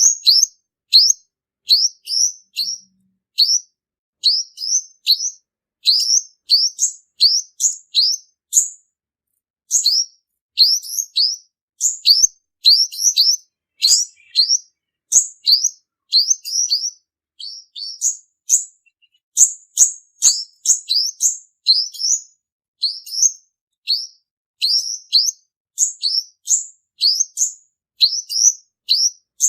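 Male olive-backed sunbird singing a quick run of short, high, rising chirps, about two to three a second, with a brief pause about a third of the way through.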